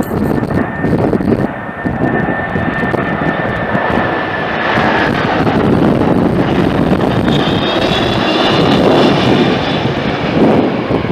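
Jet airliner passing close, its engines giving a loud, steady roar with a high whine that slides slowly down in pitch; the roar swells about halfway through.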